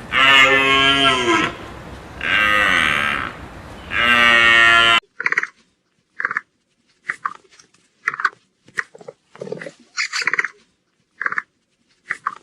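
A large farm animal calling three times in long, loud calls that rise and fall in pitch. About five seconds in it cuts off suddenly, and a different animal takes over with a string of short, high calls.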